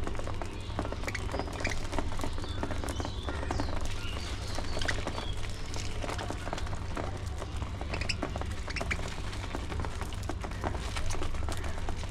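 Budgies chirping in short scattered calls, with many small clicks over a steady low rumble.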